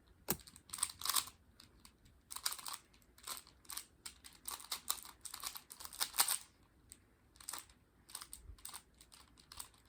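Plastic 3x3 Rubik's cube being turned fast during a speed-solve: quick, irregular runs of clicking and clacking as the layers snap round, with short pauses between runs.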